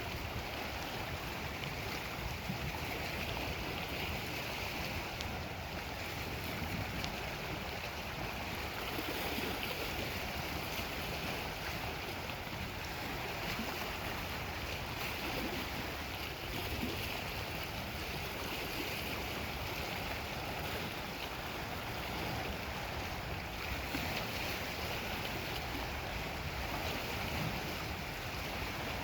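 Steady wash of Lake Superior waves with wind, an even rushing noise that holds level throughout.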